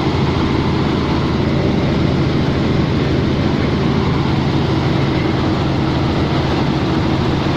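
Helicopter engine and rotor noise heard by a passenger inside the cabin in flight: a loud, steady drone with a few fixed low tones.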